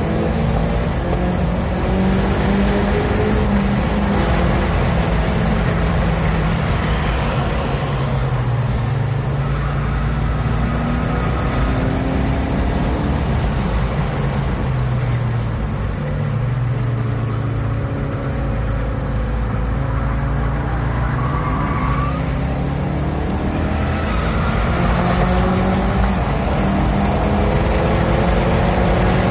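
2016 Ford Focus RS's turbocharged 2.3-litre four-cylinder, heard from inside the cabin while driven hard at track speed, its revs rising and falling through the corners. Near the end it climbs steadily under full throttle.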